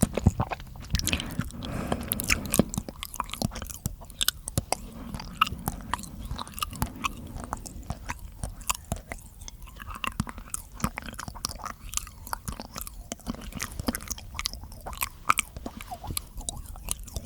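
ASMR mouth sounds: a rapid, irregular run of wet clicks and smacks from the lips and tongue.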